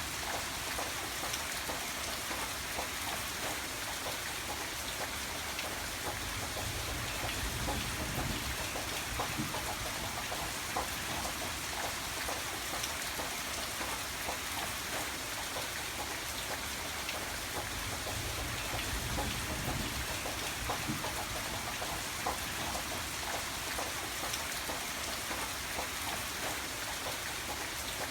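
Steady rain falling and pattering on a surface, with many small drop ticks. A soft low rumble swells and fades twice, about a third and two-thirds of the way through.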